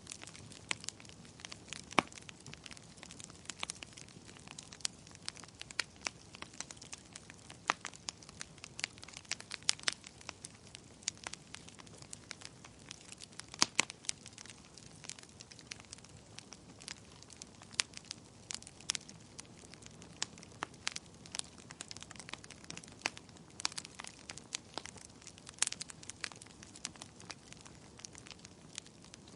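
Wood fire burning in a fireplace: irregular sharp crackles and pops of the burning logs over a faint steady hiss.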